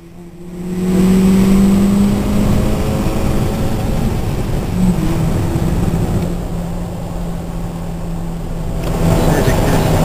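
Car engine running hard at high, fairly steady revs, heard from inside a car's cabin; it jumps up loud about a second in.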